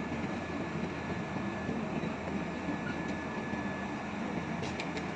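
LG mini split air conditioner outdoor unit running: steady mechanical and fan noise with a thin, steady high tone, and a few faint clicks near the end.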